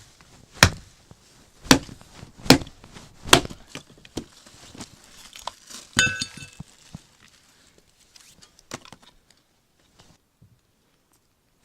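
Firewood being chopped with an axe: four sharp strikes less than a second apart. About six seconds in comes a single ringing clink, then a few faint knocks.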